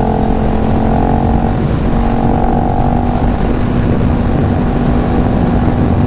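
Sport motorcycle engine running at a steady, even speed under way, with a rush of wind and road noise on the helmet microphone.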